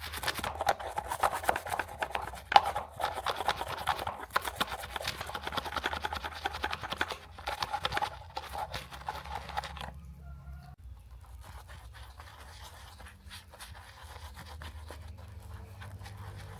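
A small brush scrubbing the dirty body of a 1:18 scale model car, in quick scratchy rubbing strokes. The scrubbing stops about ten seconds in, leaving a faint low hum.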